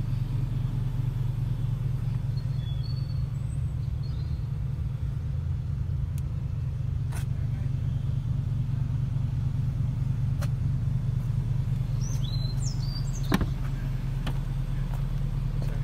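A car engine idling with a steady, even low rumble. A few faint bird chirps come through, and there is a sharp click about thirteen seconds in.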